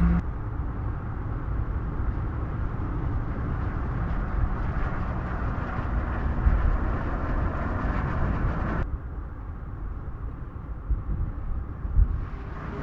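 2019 Chevrolet Corvette ZR1's supercharged V8 running at steady, moderate revs while driving, mixed with road and tyre noise. A whoosh starts to build near the end as a car approaches.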